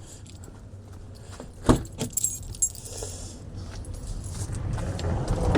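Keys jangling with a few sharp metallic clicks, then a passing car's road noise growing louder near the end.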